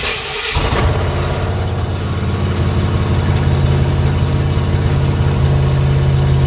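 1973 Ford's 351 Cleveland V8 on a cold start after sitting: the starter cranks briefly, the engine catches about half a second in and settles into a loud, steady idle. The owner says it is running rich.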